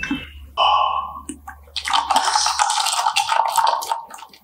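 Iced dalgona coffee slurped through a plastic straw: short sips early on, then a long gurgling slurp of liquid and air from about two seconds in, ending shortly before the close.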